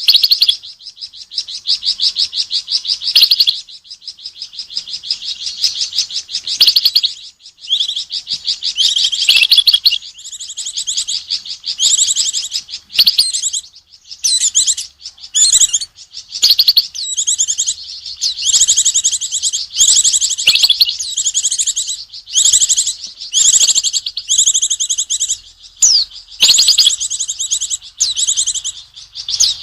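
A Flamboyan songbird calling hard and fast at the sight of an owl: long runs of rapid, high, repeated chirps, broken by short pauses, typical of a small bird's alarm or mobbing reaction to an owl.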